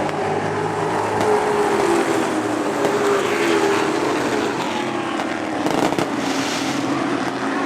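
Race trucks' engines running hard on the track, one engine's note slowly falling in pitch as it passes and pulls away.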